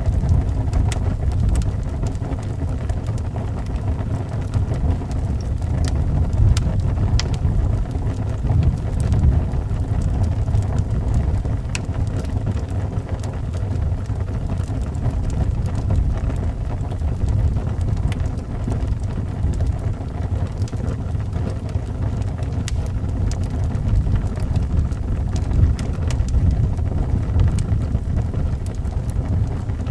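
Howling wind with a steady deep rumble, and a wood fire crackling in a fireplace, with sharp pops scattered irregularly throughout.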